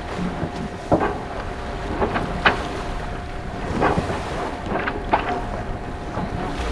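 Wind buffeting the microphone and water rushing along the hull aboard a racing sailboat, with a few sharp knocks and clicks from deck gear.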